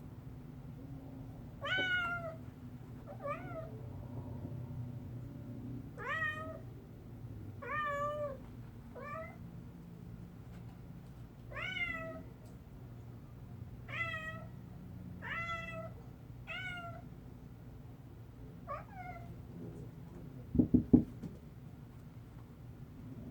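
Domestic cat meowing over and over, about ten separate meows spaced a second or two apart. Near the end comes a quick cluster of three or four sharp knocks, the loudest sounds.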